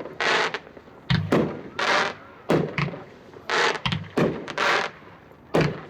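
Iron Wolf 16-shot, 500-gram consumer firework cake firing from two stations at once: a string of sharp reports about one a second, dull low thumps mixed with louder, longer bursts.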